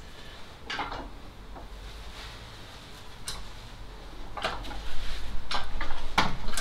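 Metal parts and hand tools clinking and knocking while something is worked into place: a few scattered knocks at first, then quicker, louder clatter in the last couple of seconds, over a steady low hum.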